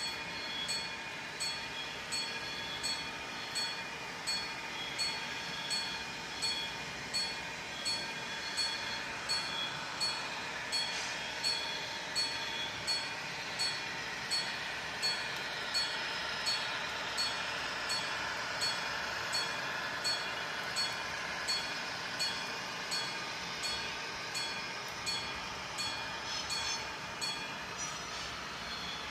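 Model railway level-crossing bell ringing steadily, about 1.4 strokes a second, with a model train's running noise swelling and fading in the middle.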